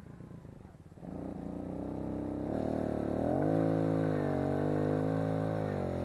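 Kawasaki KLX110 pit bike's small single-cylinder four-stroke engine running. It gets louder about a second in, rises in pitch as it revs up around two and a half to three and a half seconds in, then holds steady.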